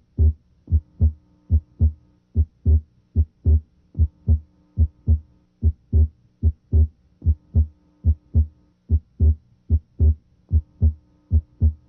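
Heart sounds through a stethoscope's diaphragm at the left second interspace: a regular lub-dub, a little over one beat a second, over a faint steady hum. The second heart sound (S2) is split abnormally wide, the split coming and going with respiration.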